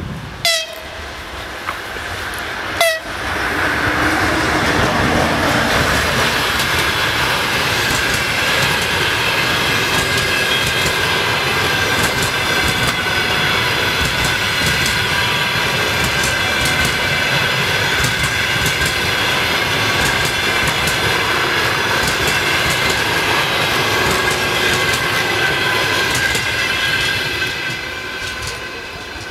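Freight train passing: a loud, steady rumble and clatter of the wagons with high ringing tones over it, building about three seconds in and easing off near the end. Two sharp cracks with a quick falling whine come just before it builds.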